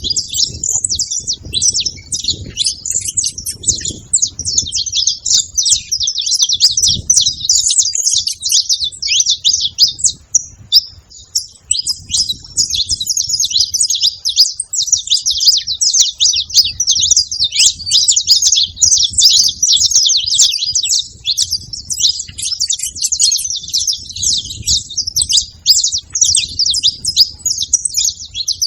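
Several saffron finches calling and singing together, a dense, unbroken chatter of rapid high chirps with no pauses. An uneven low rumble runs underneath.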